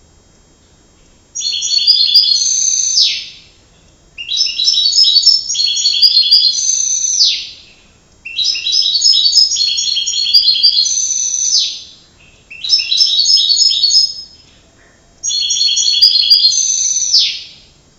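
Domestic canary singing in five rapid trilling phrases separated by short pauses. Each phrase ends with a downward-sliding whistle.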